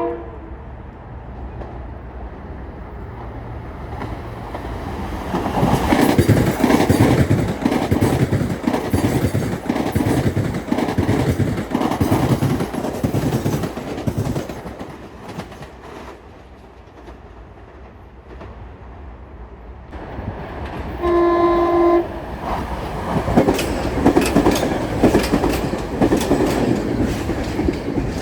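Metro-North commuter trains passing through a station, wheels clacking over rail joints in an even rhythm. About two-thirds of the way through, a train horn sounds one steady blast of about a second, followed by another loud stretch of passing train.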